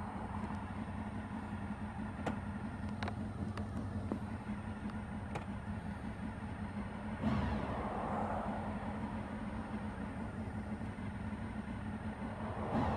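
A road vehicle on the move: steady engine and road noise with a low hum. A few faint clicks come in the first half, and about seven seconds in the sound swells suddenly louder with a sweep in pitch.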